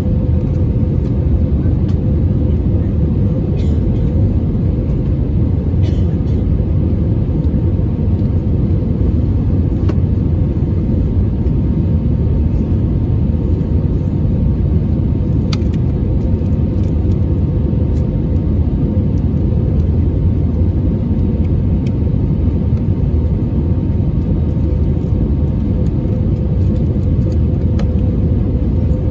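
Steady low rumble of engine and airflow noise inside the cabin of an Airbus A320neo during its approach, with a faint steady hum over it and a few faint clicks.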